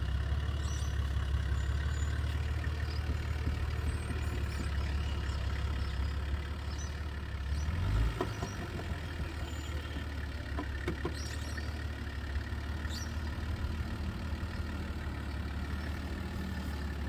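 Four-wheel-drive engine running steadily at low revs while crawling, with a brief louder swell about eight seconds in before it settles back.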